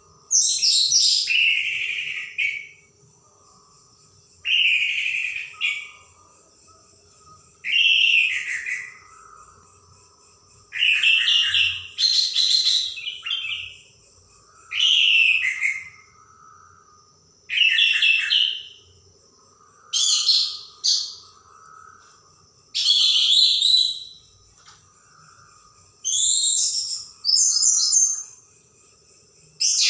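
Orange-headed thrush (anis merah) singing loud, sharp phrases of one to two seconds, about one every three seconds, with short pauses between them. A faint steady high tone and a low hum run underneath.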